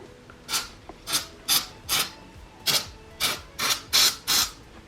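Quick back-and-forth rasping strokes, about ten of them at two to three a second, as of something being rubbed or scraped against a rough surface.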